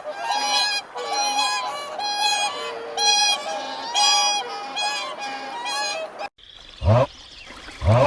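Geese honking: a run of short, nasal calls about one a second. After an abrupt cut near the end comes one short, low call that falls in pitch.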